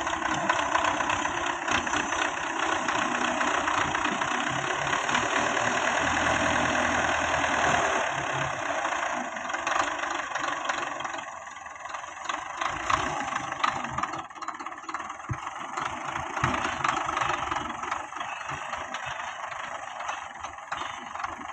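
Belarus 510 tractor's diesel engine running under work, louder for the first several seconds and easing off about halfway through.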